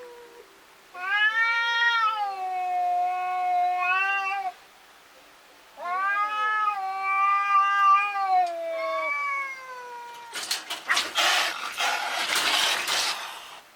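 Domestic cats yowling at a stray cat, in long drawn-out meows, two voices overlapping in the first long call and again from about six seconds in. Near the end a harsh, noisy sound lasts about three seconds.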